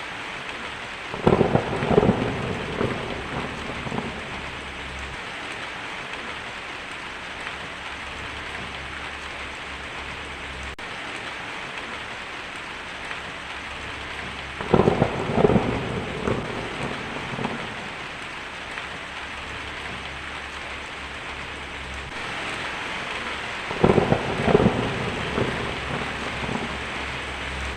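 Heavy rain pattering steadily on a tin roof, with three rolls of thunder: about a second in, about fifteen seconds in and about twenty-four seconds in, each a few seconds of rumbling with sharp cracks at its start.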